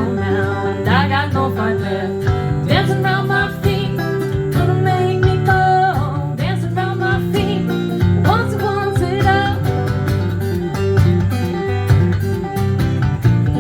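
Acoustic string band playing an instrumental passage of a song: guitar accompaniment with a melodic lead line over it, in a country or bluegrass style.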